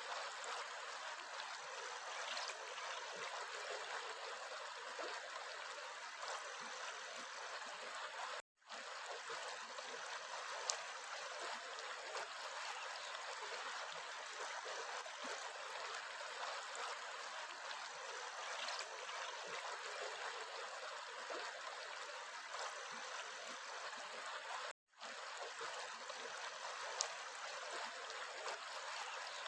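Steady rushing and trickling of a flowing stream, broken twice by a brief cut to silence.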